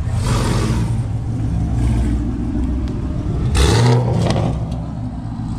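Car engine running with a steady low hum, with two louder surges of engine and exhaust noise: one at the start and a stronger one about three and a half seconds in.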